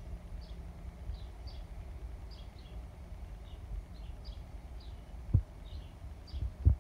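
A small bird chirping repeatedly in the background, short high notes about two a second, over a low steady rumble. Two dull thumps near the end.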